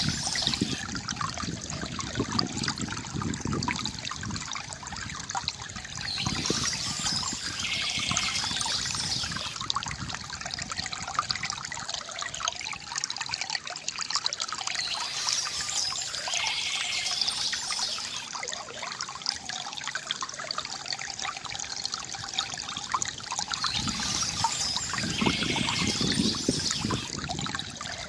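Water from a bamboo fountain trickling and splashing steadily. A short bird chirp recurs about every nine seconds.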